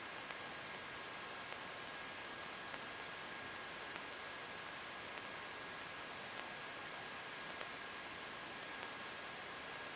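Steady electrical hiss on the Cessna 152's cockpit audio feed, with a thin high whine and a faint tick about every 1.2 seconds; no engine note comes through.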